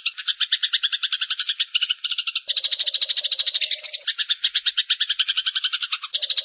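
Eurasian tree sparrows giving a dense, rapid chatter of chirps, about ten a second: the agitated calls of sparrows fighting. The chatter changes character abruptly a couple of times, as if different stretches of recording are joined.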